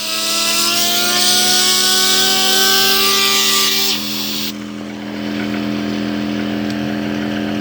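A jet of compressed air hisses loudly onto a fidget spinner, and the spinner's whine rises steadily in pitch as it spins up. The air cuts off about four seconds in. A steady low hum runs underneath throughout.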